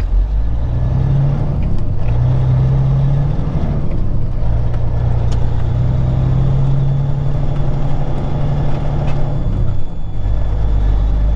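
Peterbilt 379 semi truck's diesel engine running under way, a steady low drone heard from the cab that dips and changes a few times.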